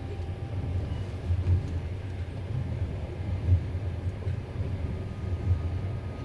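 Passenger train carriage running along the track: a steady low rumble of wheels on rails with a few louder thumps, heard from inside the carriage at an open window.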